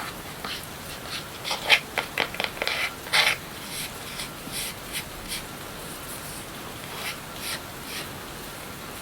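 Close-up ASMR rubbing and scratching, in a cluster of sharp strokes from about a second and a half in to about three seconds, then fainter scattered touches, over a steady background rain recording.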